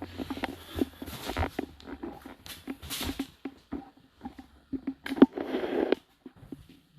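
Dishwasher racks and washed dishes being handled: irregular clicks, knocks and short rattles, with a longer rattle between about five and six seconds in.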